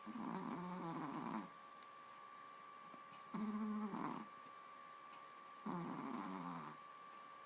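Yorkshire terrier snoring in deep sleep: three pitched snores, each about a second long, coming roughly every two and a half seconds.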